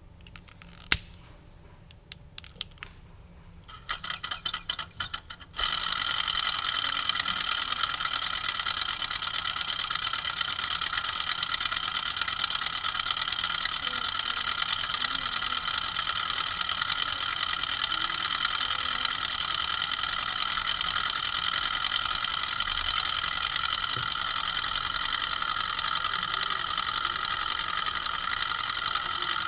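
Small candle-heated alpha Stirling engine: a few light clicks, then a rapid ticking from about four seconds in that settles at about five and a half seconds into a steady, fast mechanical rattle as the engine runs at speed.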